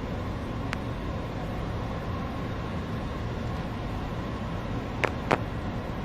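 Steady noise of a Boeing 737 on final approach heard from the flight deck: airflow and engine noise with the gear down and flaps set, plus a few short sharp clicks, one near the start and two close together near the end.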